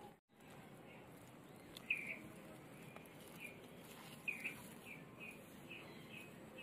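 A bird chirping faintly: one short chirp about two seconds in, then a quick run of repeated short chirps, about three a second, from just past the middle on.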